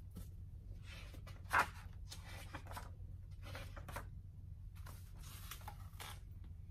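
Faint rustling of a picture book's paper pages being handled and turned: a few short scrapes, the loudest about a second and a half in, over a low steady room hum.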